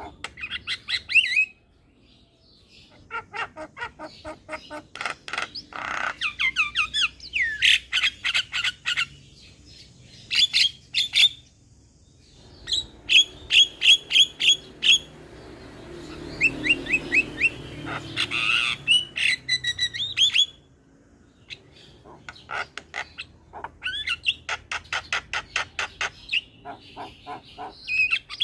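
Javan myna (jalak kebo) singing in fast runs of sharp, repeated chirps and squawky notes, several a second, in bursts broken by short pauses.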